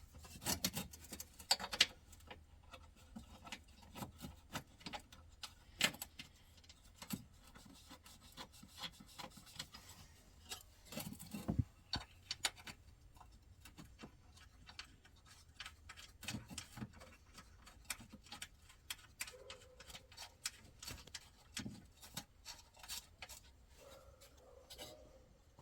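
Hand tools and metal parts clicking and scraping irregularly as a bolt is threaded in by hand and tightened.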